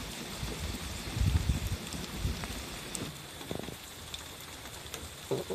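Soft, irregular patter and light knocks, with a short cluck from a hen near the end.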